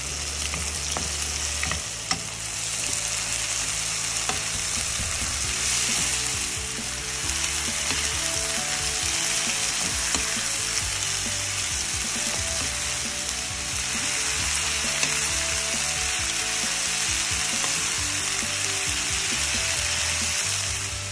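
Vegetables stir-frying in hot oil in a wok, a steady sizzle throughout, with a spatula stirring and scraping through them.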